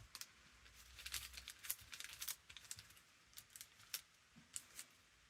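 Faint, scattered small clicks and ticks of a paintbrush working a thin layer of Mod Podge over a paper journal cover.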